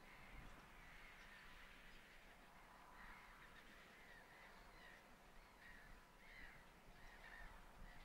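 Faint, short bird calls repeated about every half second, thickest from about three seconds in.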